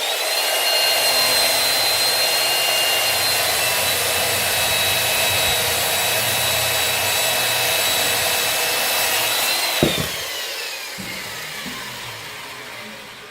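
Electric saw running with a steady high whine while cutting firewood, then switched off with a click about ten seconds in, its motor whine falling away as it spins down.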